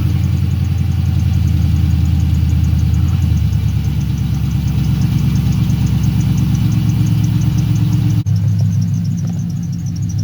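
LS V8 idling steadily just after a cold start, with a faint quick chirp from a squeaky belt running over it. The idle shows no misfire with the new spark plug wires, which the owner counts as a win.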